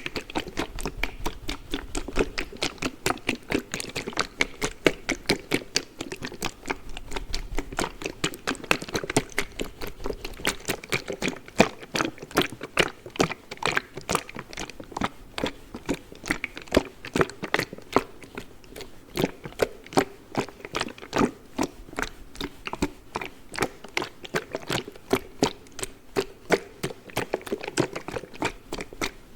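A cold pack being rapidly tapped and scratched by fingers, giving a quick, uneven run of crisp taps and crinkles, several a second.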